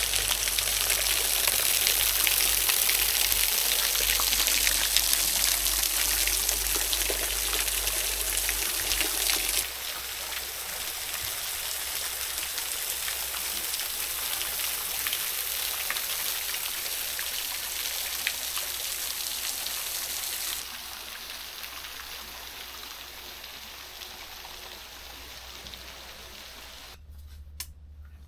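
Steady rush of running water from a small waterfall. It drops abruptly in level twice, about ten and twenty seconds in, then fades away to near quiet at the very end.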